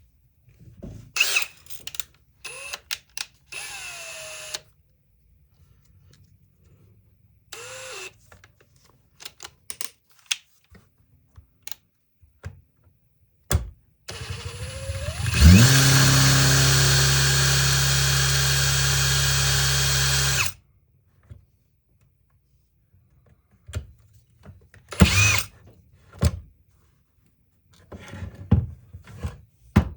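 Power drill spinning up about halfway through, running steadily for about five seconds, then stopping, drilling into a screw in poor condition so a screw extractor can be used. A few short clicks and brief whirs come before it.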